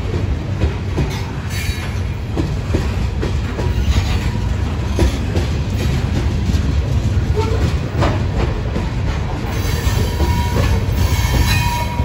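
Freight train of covered hopper cars rolling past: a steady low rumble of steel wheels on rail with scattered clicks as wheels cross rail joints, and a faint thin wheel squeal near the end.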